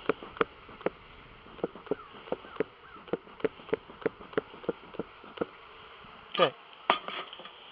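Honeybees buzzing around an opened nuc, stirred up and described as thoroughly annoyed, with a run of short, sharp sounds about three times a second.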